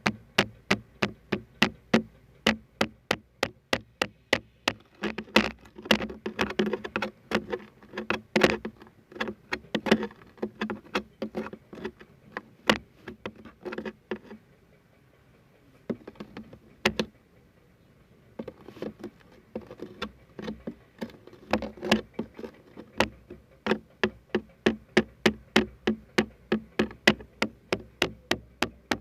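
Steady tapping on a hard object, about two to three taps a second, with a low ringing tone under the taps and a lull of a few seconds about halfway through.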